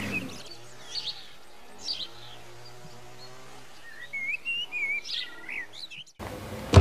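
Small birds chirping and twittering in short, warbling rising and falling calls, most of them in the second half. The sound cuts off suddenly near the end.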